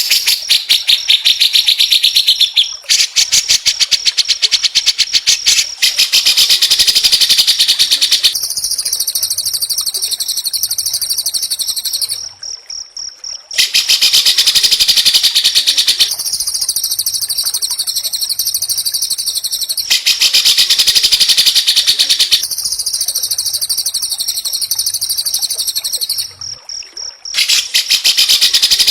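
White-rumped shama (murai batu) singing fast, tightly packed trills of rapid high-pitched notes, in phrases a few seconds long, with a brief drop in loudness about twelve seconds in and again near the end.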